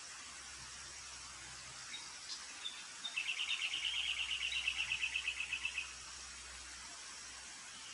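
A bird calling: a few short high chirps, then a rapid high trill of about ten notes a second lasting nearly three seconds.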